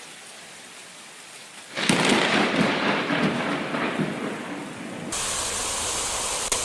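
A close lightning strike's thunderclap: a sudden loud crack about two seconds in that rumbles and fades over about three seconds. Steady rain hiss follows.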